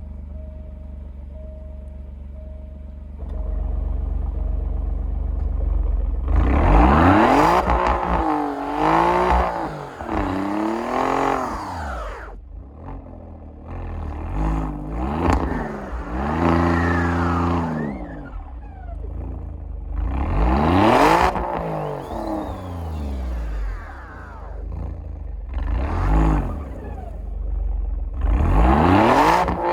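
Alfa Romeo Giulia Quadrifoglio's twin-turbo V6 idling, then revved hard in about five rising-and-falling bursts from about six seconds in. The car is stuck in deep snow, trying to dig itself out without moving.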